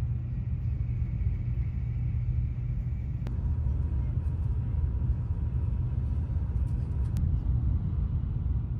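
Steady low rumble of a moving vehicle. A faint steady tone sounds through the middle few seconds, beginning and ending with a short click.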